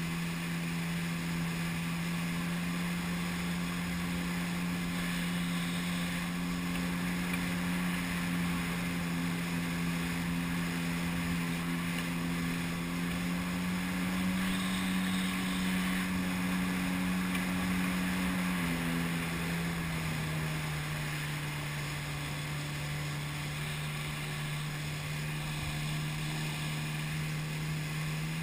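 Jet ski engine running at a steady cruising speed on the water, with some wind on the microphone. It speeds up a little about halfway through, then eases back and holds a lower, steady speed.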